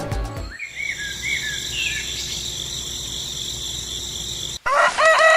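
Crickets chirring steadily, with a few short higher chirps over them. The chirring cuts off abruptly near the end and a rooster starts crowing.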